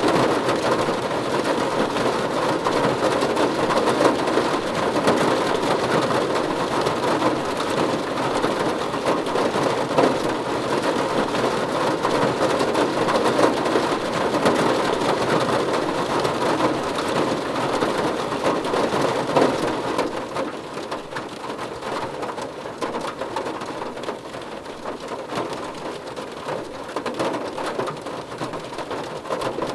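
Heavy rain falling steadily as a dense patter of drops, easing slightly about two-thirds of the way through.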